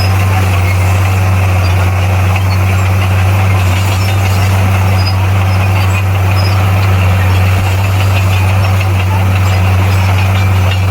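Komatsu D58P bulldozer's diesel engine running steadily, with a deep, even hum and no change in speed.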